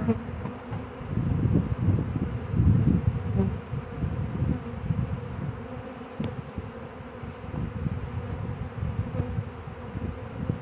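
Honey bee swarm buzzing: the steady, droning hum of many bees in the air around the catch boxes, with low rumbles in the first few seconds.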